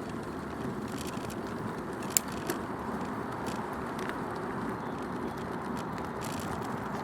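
Bicycle tyres rolling along an off-road track, heard from a recorder mounted on the bike: a steady rolling rumble and hiss with scattered small clicks and rattles. One sharper click comes about two seconds in.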